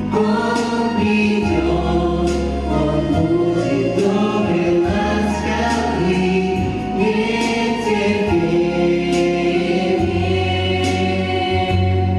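A group of voices singing a song in chorus over an instrumental backing with sustained bass notes and percussion hits.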